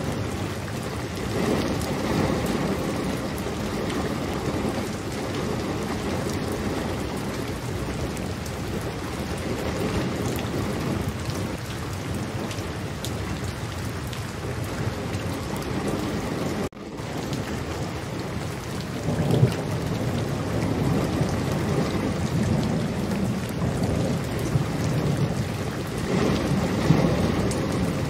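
Steady rain falling, with low rumbles of thunder swelling up three times. The sound cuts out for an instant about two-thirds of the way through.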